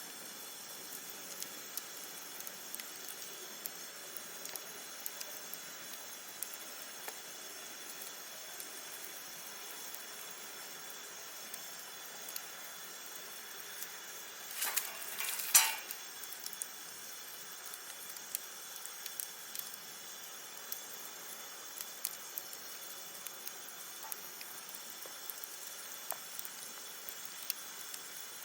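Wood campfire crackling: many small scattered pops over a steady faint hiss, with one louder burst of crackling about halfway through.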